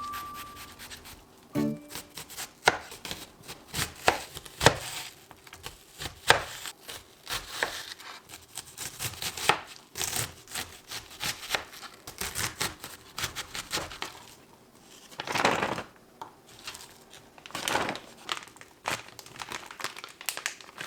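Kitchen food-prep handling: irregular knocks and clicks with plastic crinkling and rustling, swelling briefly about fifteen and eighteen seconds in.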